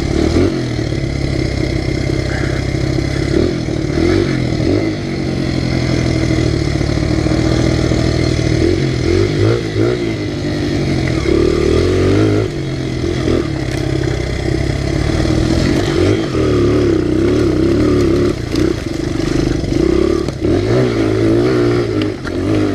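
Honda XR100R pit bike's single-cylinder four-stroke engine running while the bike is ridden, its revs rising and falling every few seconds with throttle and gear changes.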